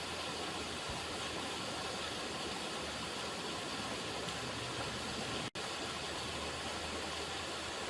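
River water running, a steady even rush. The sound cuts out for an instant about five and a half seconds in.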